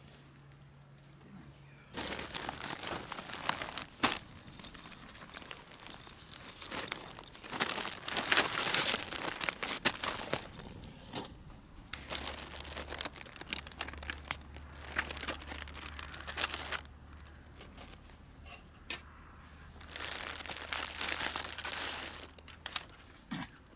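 Crinkling and rustling of material being handled, in bouts with sharp clicks, lasting most of the time with a pause before a last short bout near the end.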